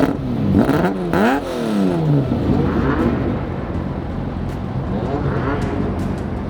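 A car engine revved in quick throttle blips, its pitch rising and falling: several close together in the first two seconds, then fainter blips about three and five and a half seconds in.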